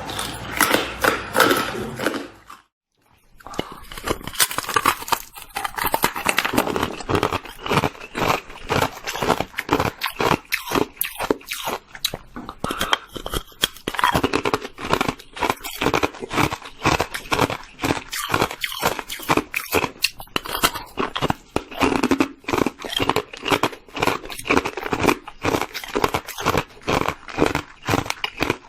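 Hard white ice being bitten and chewed close to the microphone: dense, rapid crunching and cracking, with a brief silent break about three seconds in.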